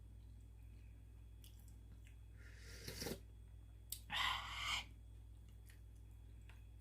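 Close-miked eating of beef noodle soup: two short bursts of mouth noise, one about three seconds in and a longer one about four seconds in, with a few faint clicks from the spoon or chopsticks.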